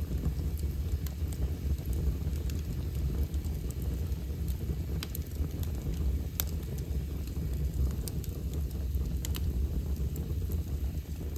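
Wood fire burning in a fireplace: a steady low rumble with a few sharp, scattered crackles and pops.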